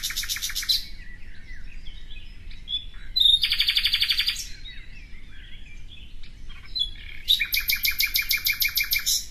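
Birds singing: three loud, rapid trills of about a second or two each, one fading about a second in, one around three to four seconds in and one near the end, with softer chirps between them.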